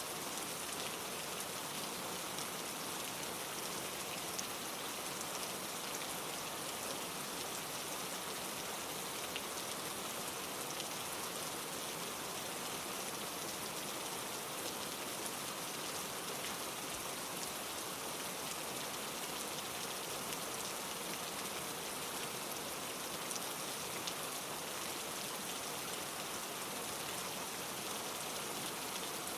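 Steady rain falling on leaves, an even hiss with scattered small drop ticks.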